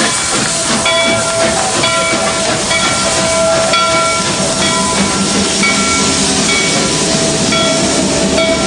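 Steam locomotive on an excursion train, a steady loud hiss of steam with faint ringing tones that come and go over it.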